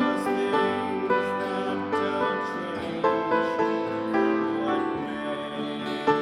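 Live acoustic folk music: plucked string instruments picking an instrumental break, a run of distinct notes at a steady pace.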